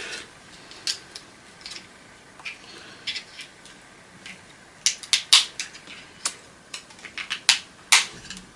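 Irregular sharp clicks, snaps and small metallic knocks of parts being pried and broken off an old vacuum cleaner that is being taken apart for its wire. The clicks come more thickly and loudly from about five seconds in.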